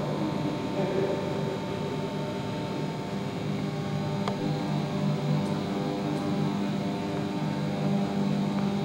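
A steady low hum made of several constant tones over a faint background hiss, with a couple of faint clicks about halfway through.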